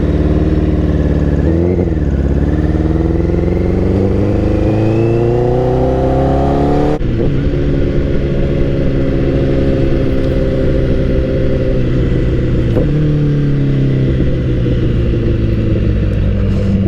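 2012 Honda CBR1000RR's inline-four engine accelerating away from a green light, its pitch climbing with upshifts about two seconds and about seven seconds in, then running at a steadier pitch.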